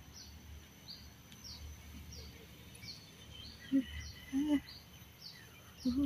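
A bird calling over and over in short descending chirps, about two a second, over a low steady outdoor rumble. Two brief, louder low-pitched sounds stand out about four seconds in.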